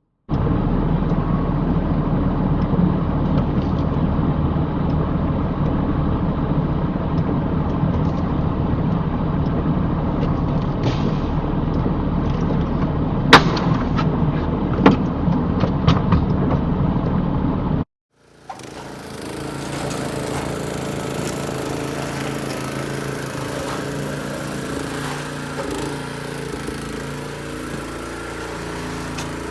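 An engine running steadily with a low hum, with a few sharp knocks around the middle. It cuts off a little past halfway, and another steady engine run follows, somewhat quieter.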